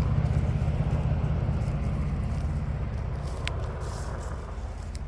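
A motor vehicle's engine running with a low, pulsing rumble that fades steadily as it moves away.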